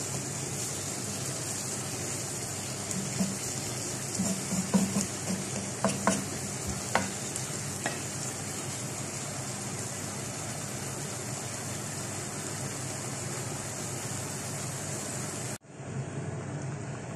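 Chicken pieces frying in oil in a pan, a steady sizzling hiss, with a few sharp knocks and clinks a few seconds in. Near the end the sizzle cuts off suddenly and a duller steady sound takes over.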